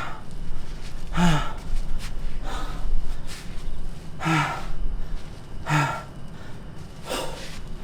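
A man breathing hard after strenuous exercise: loud gasping breaths every second or two, some voiced with a short falling pitch, others plain breathy exhalations.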